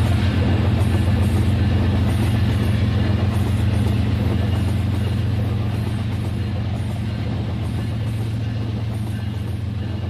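RailKing O-gauge model train running on track: a steady low motor hum with rattling wheel noise that fades slightly as it goes.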